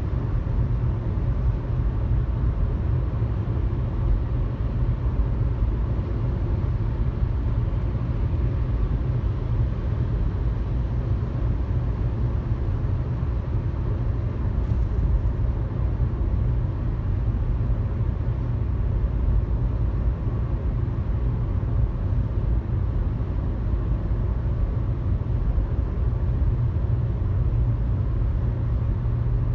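Steady low rumble of a car cruising on a highway, heard from inside the cabin: road and tyre noise with engine drone, unchanging throughout.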